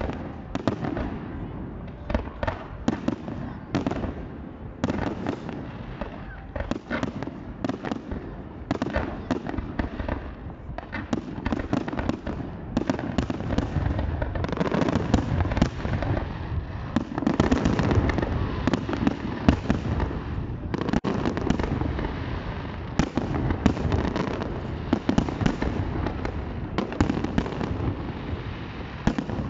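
Fireworks display: aerial shells bursting in a rapid series of sharp bangs and crackles. After about twelve seconds they thicken into a dense, nearly continuous barrage.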